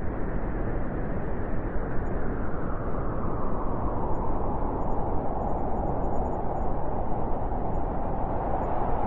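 Blizzard wind blowing steadily, a dense rushing noise, with a hollower tone coming up a little stronger in the second half.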